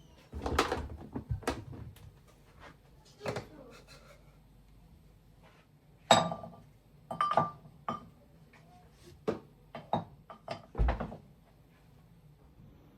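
Household handling sounds: a series of separate knocks, clicks and clatters of things being set down, opened and closed, with a busy cluster about a second in and sharp knocks about six and eleven seconds in.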